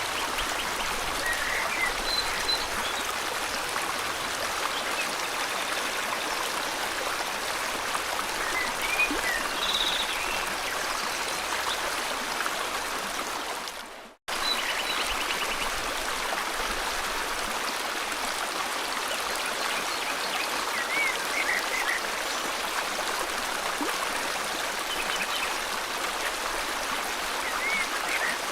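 Steady flow of river water with scattered short bird chirps over it. About halfway through, the sound fades out to silence for a moment and then cuts straight back in.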